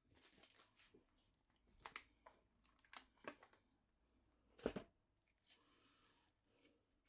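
Quiet rustling and crinkling handling noise with a few light taps, and one louder knock a little past halfway.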